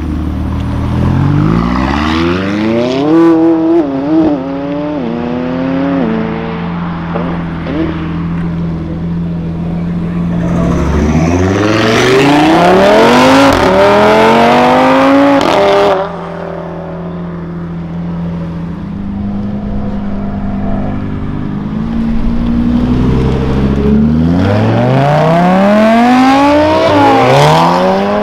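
Performance cars accelerating hard away one after another, the engine pitch climbing and dropping back at each upshift. A McLaren's twin-turbo V8 comes first, then an Audi RS3's five-cylinder, then a Volkswagen Golf R. Between the runs, engines idle steadily, and the sound breaks off abruptly about two-thirds of the way through.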